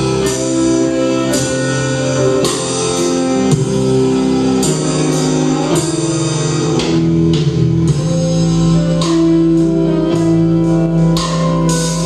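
Rock band playing an instrumental passage: guitar chords held over bass, with drum and cymbal strikes about once a second.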